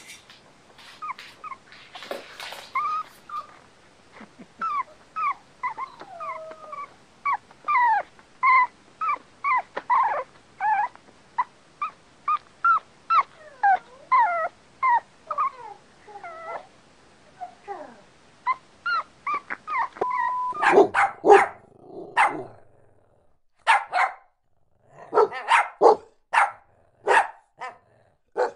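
A dog making a long run of short, high-pitched whining yips, two or three a second. Near the end come a few bursts of louder, deeper barking.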